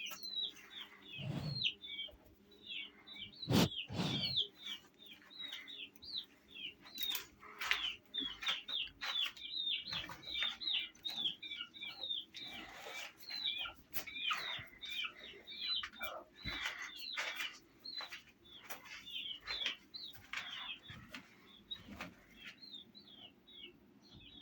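Many small birds chirping continuously in quick, short, overlapping chirps, with scattered short knocks or flutters among them.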